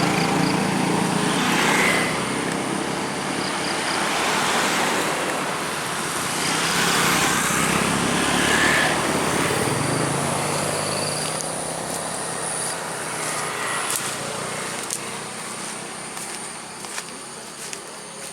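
Road traffic passing on the hill road: several vehicles go by one after another, each swelling and fading, then the noise dies down over the last few seconds.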